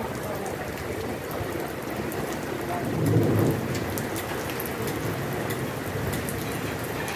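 Heavy downpour pouring onto wet paving, a steady hiss with scattered sharp ticks. A brief low rumble comes about three seconds in.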